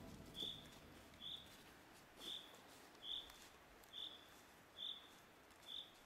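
A bird giving one short high chirp over and over, about once a second.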